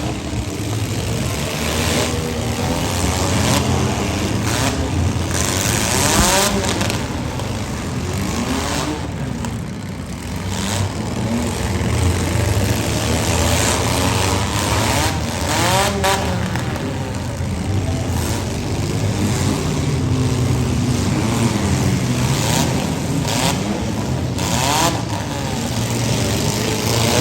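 Several compact demolition-derby cars' engines running and revving, their pitch rising and falling, broken by several sharp bangs of cars colliding.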